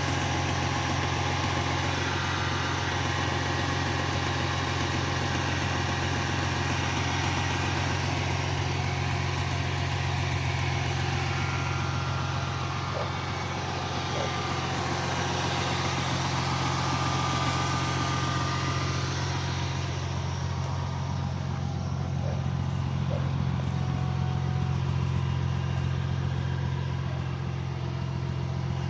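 2000 Ford Mustang's 3.8-litre V6 idling steadily with a tick or tap in it, which the owner takes for a noisy lifter.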